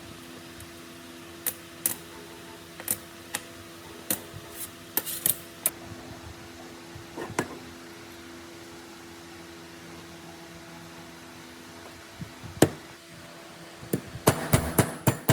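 Metal tools and parts clinking and tapping at intervals over a steady low hum, with one loud knock about two-thirds of the way through. Near the end this turns into a fast, regular run of knocks, about six or seven a second.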